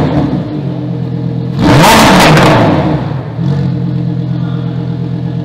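Lamborghini Huracán Tecnica's naturally aspirated 5.2-litre V10 idling through its exhaust and blipped. It falls back from a rev at the start, then gives one sharp rev about one and a half seconds in that climbs and drops back over about a second, before settling to a steady idle.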